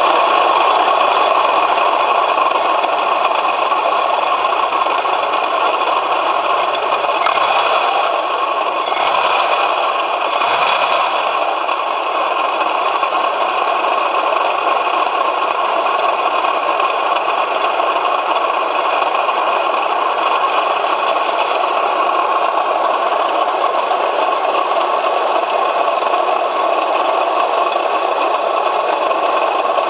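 Opel Omega B's X30XE V6 engine running steadily with a constant knocking rattle, which the owner puts down to a worn water pump.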